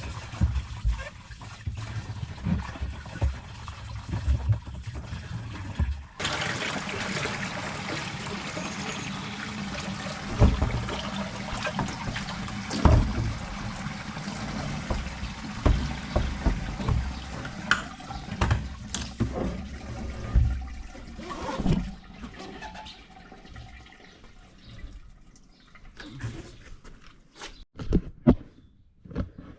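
Water running and splashing as a jet ski fuel tank is washed out, a steady rush that starts about six seconds in and stops near the end, with knocks from the tank being handled before and after.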